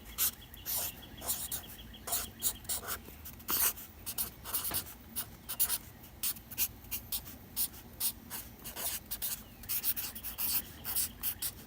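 Writing on paper: short, irregular scratchy pen strokes, one after another.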